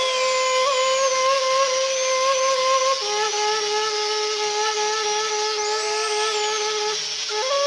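Small electric rotary carving tool whining and grinding steadily against buffalo horn, over flute music with long held notes that change about three seconds in and near the end.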